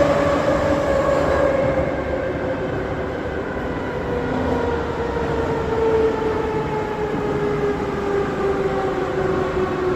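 Moscow Metro 81-717.5M/81-714.5M subway train running between stations: a whine of several tones falls slowly and steadily in pitch as the train slows, over the rumble of wheels on the rails.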